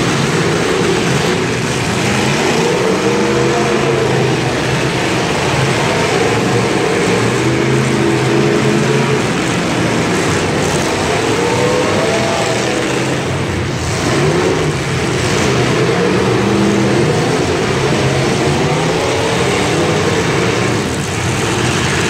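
Engines of several 1980s-class demolition derby cars revving up and down together, loud and continuous.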